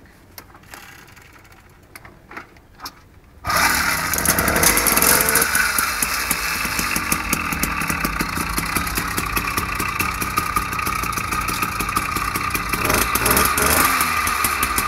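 A 49cc Chinese two-stroke engine, just taken off choke, catches abruptly about three and a half seconds in and then runs steadily with a high, buzzy note, a little louder for a moment near the end.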